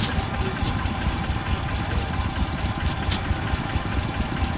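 An engine idling steadily, a low rumble with a rapid, even throb.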